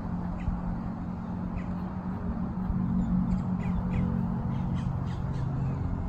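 Birds calling in short, separate calls, many of them from about a second and a half in, over a steady low hum.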